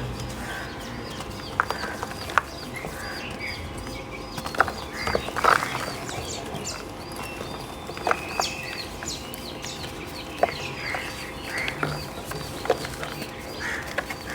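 Chunks of soft pink chalk being crushed: scattered sharp crunches and crackles. Behind them runs a faint high chirp repeating about twice a second.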